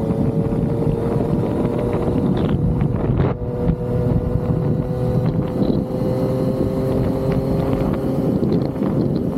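Yamaha XSR900's inline-three engine running under way, its pitch rising slowly, with wind rushing over the microphone. It dips briefly about three seconds in.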